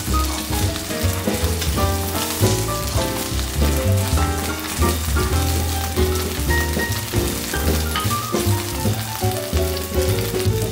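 Oysters frying in oil in a pan, sizzling steadily, heard under background music with a strong bass line and a melody.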